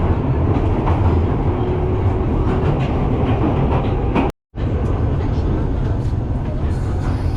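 Train running on rails: a steady low rumble with scattered rattling clicks. It cuts out completely for a moment about four seconds in, then resumes unchanged.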